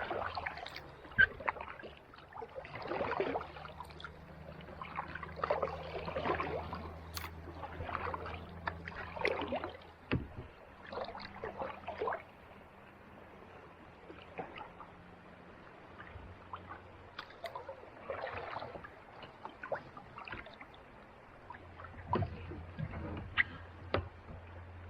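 Kayak paddle strokes on calm sea water: a splash and trickle of dripping water every few seconds. A low steady hum runs underneath, drops out about ten seconds in and returns near the end.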